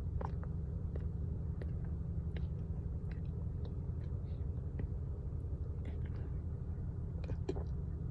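A mouth chewing a mouthful of raw cornstarch, giving scattered soft squeaky clicks and crackles, over a steady low hum.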